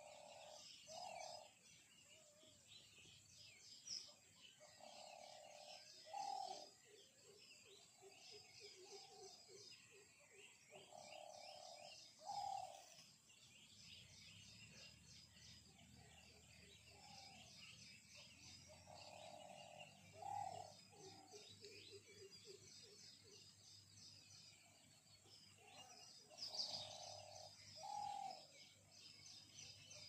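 Faint birdsong: small birds chirping continuously in high, quick notes, with a lower two-part call repeated five times, every five to seven seconds.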